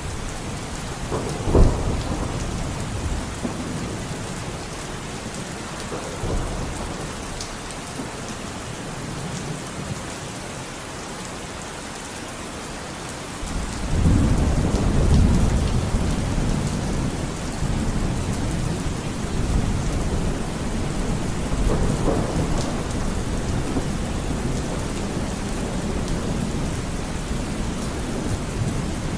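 Steady rain with thunder: a sharp crack about a second and a half in, then a long low rumble that swells about halfway through and keeps rolling, rising again near the end.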